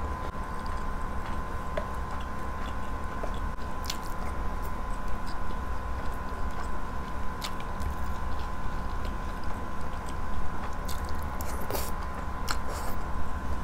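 Close-miked chewing and mouth sounds of a person eating grilled chicken and rice by hand, with scattered short clicks. A steady electrical hum runs underneath.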